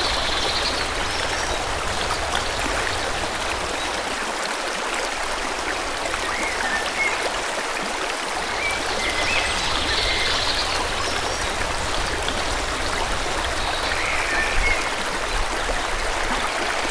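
A forest stream flowing steadily, with birds giving short high chirps a few times over the water sound.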